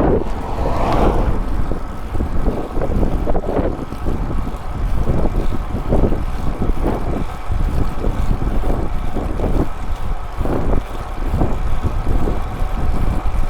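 Wind buffeting the microphone while moving along a road: a loud, continuous low rumble and rush that swells and dips in irregular gusts.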